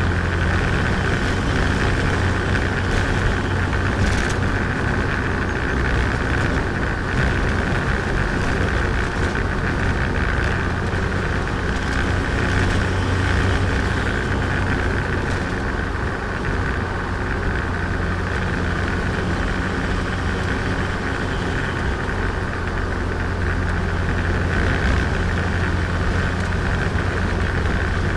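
Turbocharged Nissan Micra engine running steadily while driving, with road noise; the engine is being run in after a rebuild.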